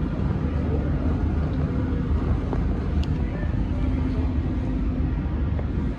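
Metro train running, a steady low rumble with a constant hum over it.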